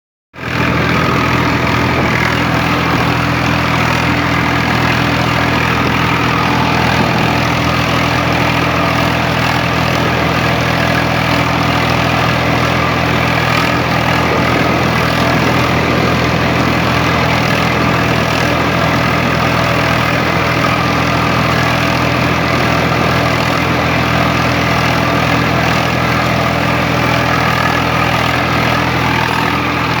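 Swaraj 855 tractor's three-cylinder diesel engine running steadily at constant speed, with no change in pitch.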